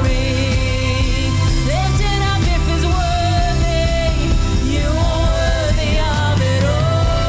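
Praise and worship song: a voice sings long, held notes over a full band with strong bass.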